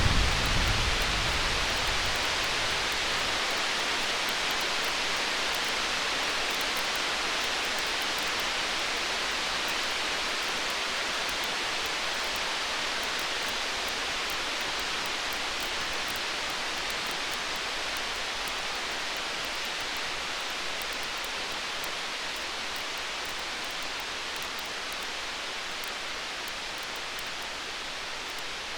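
Steady rain hiss through a stormy night, with the last of a low thunder rumble fading out in the first two seconds. Faint small crackles from a campfire sit over the hiss.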